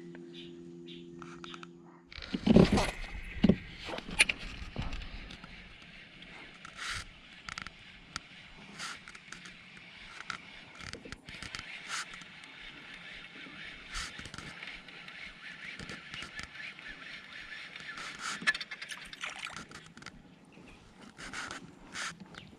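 Knocks and scrapes of gear against a plastic fishing kayak, loudest in a cluster a couple of seconds in, then scattered clicks over a steady faint hiss.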